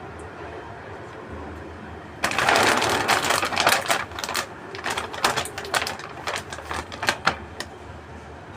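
Plastic food wrapper crinkling and crackling as it is handled: a loud dense rustle about two seconds in, then scattered sharp crackles that thin out and stop near the end.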